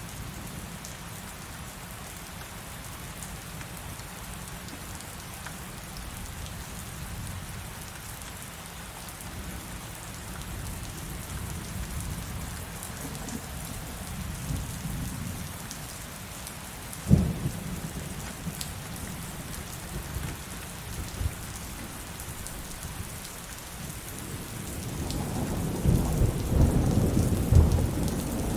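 Steady heavy rain, with thunder: a sharp crack about seventeen seconds in, and a longer rolling rumble near the end.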